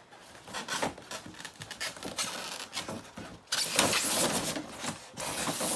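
Cardboard box and packing material of a radio-controlled model plane kit being opened and handled: irregular rustling and scraping, loudest about two-thirds of the way through.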